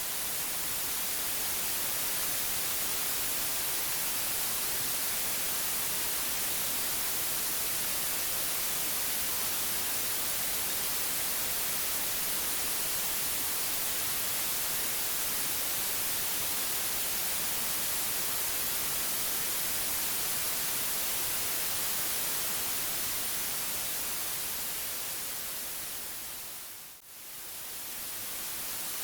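Steady white noise hiss, brightest in the high frequencies, that briefly fades down and swells back up about two seconds before the end.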